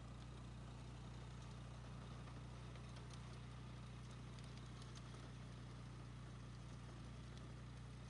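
Gas-powered tiller engine running steadily, heard faintly as a low hum.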